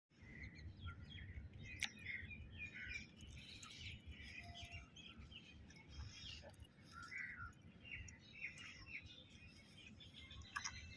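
Small birds chirping and twittering, many short calls overlapping throughout, faint, over a low steady rumble, with a sharp click twice.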